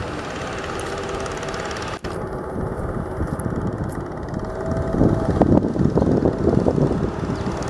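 Heavy diesel machinery engine running steadily, with a brief break about two seconds in; from about five seconds in it grows louder and rougher, with uneven knocks and rattles.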